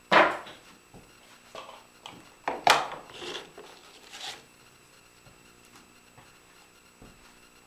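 Pieces of wood being handled and set down: a few short scrapes and knocks of wood on wood, the loudest right at the start and again about two and a half seconds in, then quiet.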